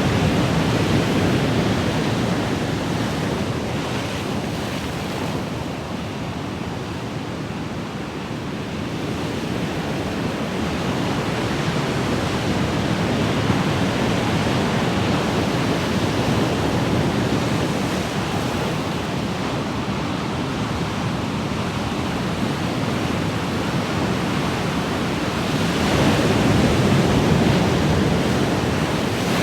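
Ocean waves breaking and washing on a shore, a steady rushing wash that swells and ebbs slowly, with a bigger wave surging in near the end.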